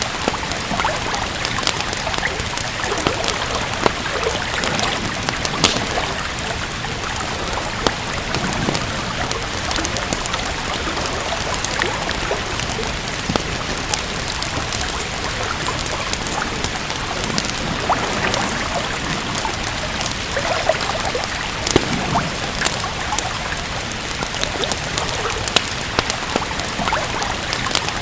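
Steady rain with a wood fire crackling, with frequent sharp pops and clicks scattered over the even hiss.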